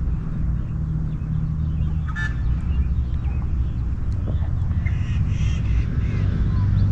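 Steady low outdoor rumble with a few short bird calls, one about two seconds in and a cluster around five seconds.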